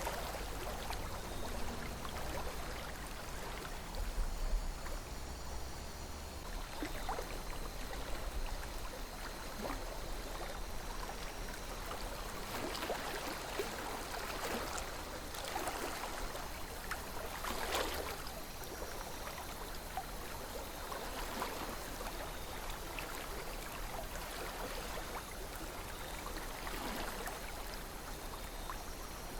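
A calm river flowing, a steady rush of water with small trickles and splashes scattered through it and a faint low rumble underneath.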